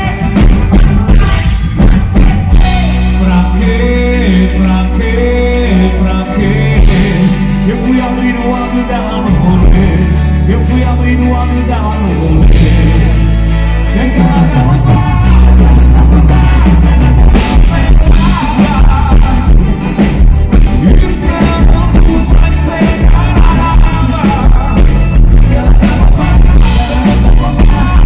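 A band playing a song with a singer, over a steady beat and a bass line that moves between held notes.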